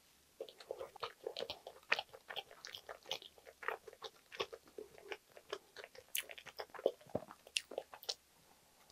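Close-miked chewing of a soft egg potato sandwich: irregular wet mouth clicks and smacks as the bread and filling are chewed.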